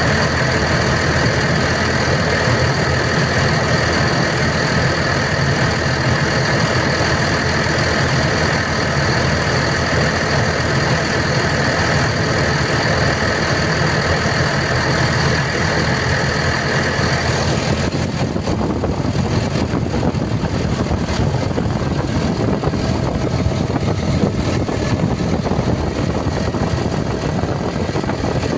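Diesel engine of a Volvo EC250ENL tracked excavator running steadily at idle, with a steady high whine over it that drops away about two-thirds of the way through.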